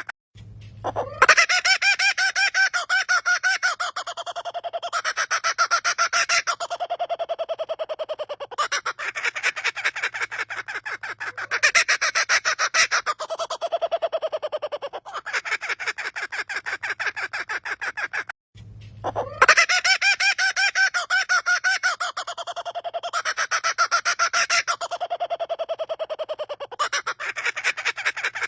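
A bird's laughter-like call: long runs of rapid, evenly pulsed notes, about ten a second, in phrases a few seconds long, broken by short pauses near the start and about two-thirds of the way through.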